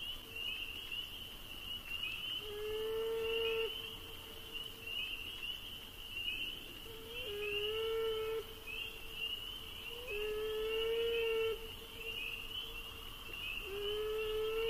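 A lone male beaver crying out four times, long held wailing calls of about one to two seconds each, which the recordist heard as crying inconsolably for its lost mate and young. A rapid high chirping runs steadily behind the calls.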